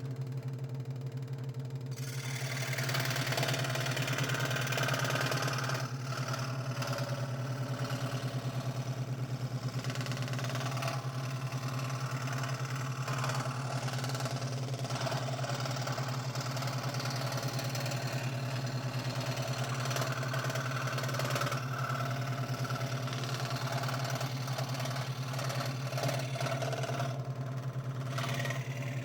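Scroll saw running with a steady, fast-stroking hum, its blade cutting thin 3 mm craft plywood into small puzzle pieces. A rasping cutting noise joins the motor hum about two seconds in and carries on with small changes as the cut turns.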